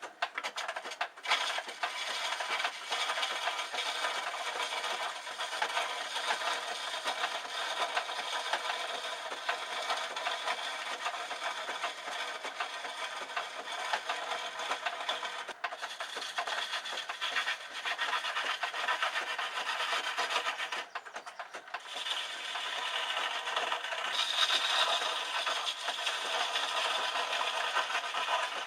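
Turning tool cutting a piece of wood spinning on a foot-powered treadle lathe: a continuous scraping hiss of the wood shaving, broken off briefly a few times, about a second around twenty seconds in, as the tool lifts from the work.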